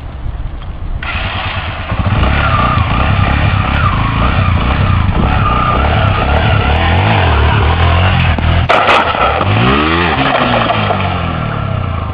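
Motorcycle engine revving hard, its pitch wavering up and down. A sharp clatter comes about nine seconds in, after which the engine note falls and rises again.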